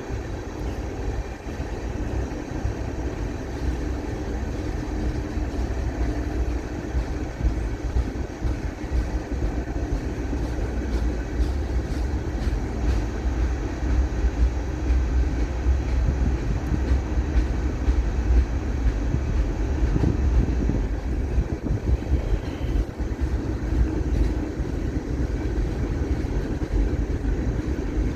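Freight train running past: a steady low rumble of the rolling cars, with faint scattered clicks.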